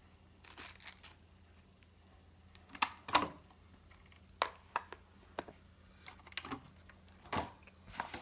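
Handling noises from unpacking a boxed floodlight camera: a short rustle of packaging, then a scattering of sharp plastic clicks and knocks, the loudest a little after three seconds.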